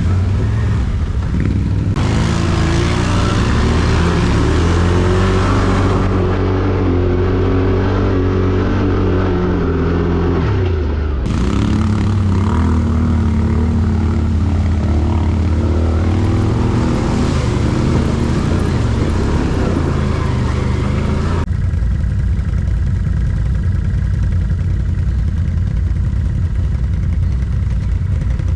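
ATV engines running, in short cut-together stretches. The engine pitch drops about ten seconds in and climbs again a few seconds later; the last stretch is a steadier low engine drone.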